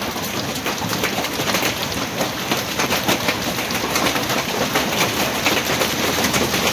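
Heavy hailstorm: hailstones and rain pelting down on hard surfaces, a dense, steady patter of many small hits.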